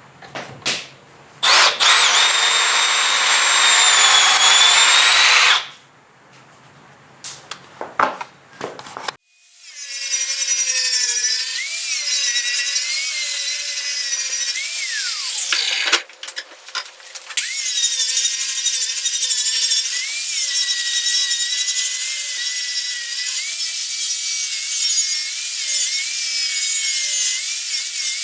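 Electric power drill running in wood: a run of about four seconds near the start, a few knocks, then from about ten seconds on a long run whose pitch wavers up and down as the load changes, with a short break partway through.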